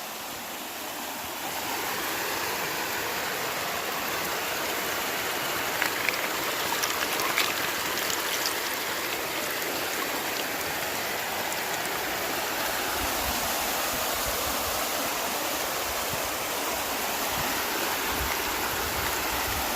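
A small waterfall and its stream running, a steady rush of water. A few light clicks come about six to eight seconds in.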